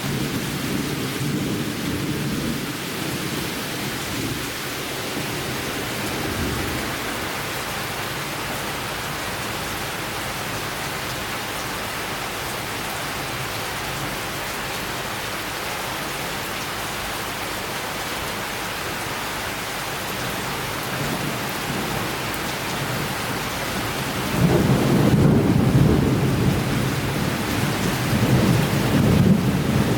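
Steady summer rain falling, with thunder. A low rumble fades over the first few seconds, and a louder rumble starts about three-quarters of the way through and carries on to the end.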